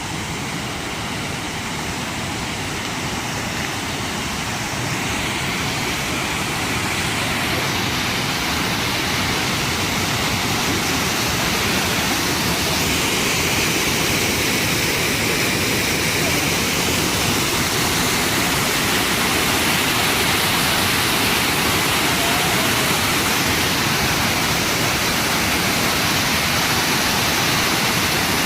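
Keila waterfall: the steady rush of a large volume of falling water, growing gradually louder over the first ten seconds or so and then holding even.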